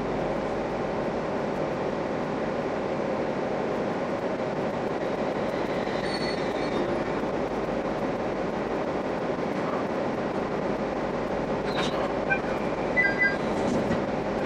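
A local passenger train running on rails, a steady rolling rumble of wheels and running gear, played back at five times speed. A few brief high squeaks and clicks come near the end.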